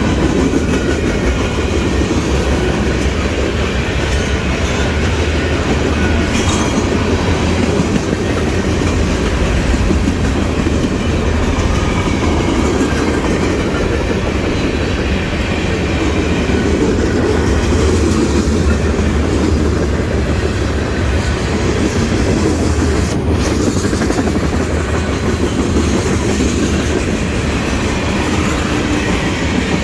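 A CSX mixed freight train's cars rolling steadily past, their steel wheels clattering over the rail joints in a continuous rumble, with one sharp click about three-quarters of the way through.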